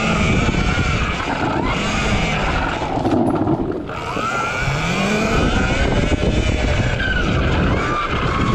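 RFN SX E15 Plus electric dirt bike's motor whining, its pitch rising and falling as the throttle is worked, over a loud rushing noise; it eases off briefly about three to four seconds in.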